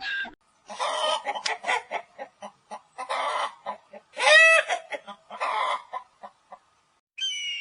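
Chickens clucking in a run of short, irregular clucks, with one louder, drawn-out squawk about four seconds in.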